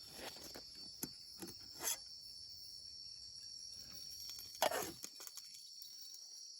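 Steady high-pitched chorus of forest insects, crickets or similar, with a few brief knocks and clatters: about one, two and nearly five seconds in.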